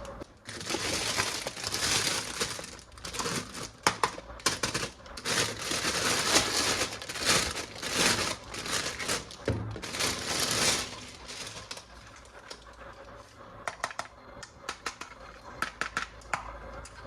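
Toy packaging crinkling and rustling as it is handled and opened, in dense runs of bursts for about the first ten seconds, then thinning out to scattered clicks and taps.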